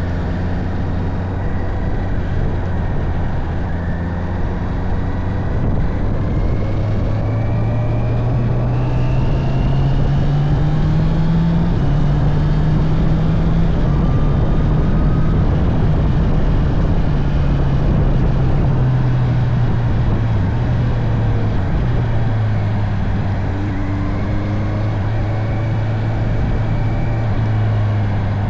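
Honda CB650R's inline-four engine running on the road under a dense rushing noise. Its pitch climbs steadily for several seconds as the bike accelerates, drops back suddenly, holds steady at cruise, then dips again late on.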